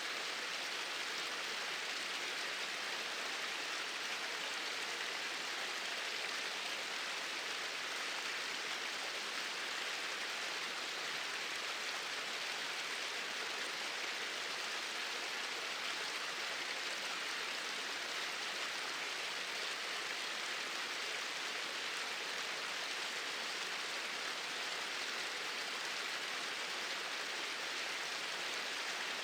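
Small waterfalls pouring steadily into a stream, a constant even rush of water.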